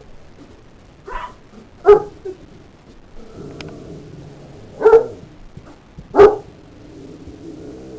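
Dogs barking in a scuffle, with four sharp barks about a second in, near two seconds, near five seconds and just after six seconds. Between the barks there is a quieter, drawn-out pitched sound.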